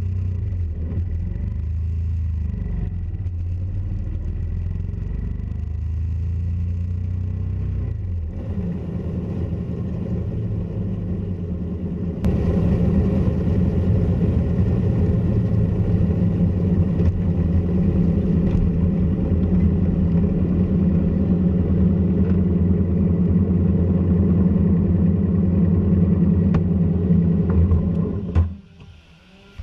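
A motorcycle being ridden, heard from a camera mounted low on the bike: steady engine and road noise, stepping up noticeably louder about twelve seconds in, then cutting off suddenly near the end.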